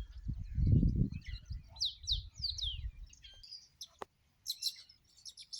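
Birds chirping, with a run of quick down-slurred whistles about two seconds in and more chirps near the end. A low rumbling noise lies under the first three seconds.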